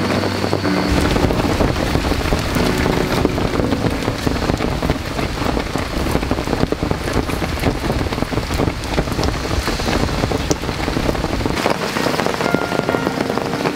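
Heavy rain falling on a camp tarp overhead, a dense, steady patter of drops.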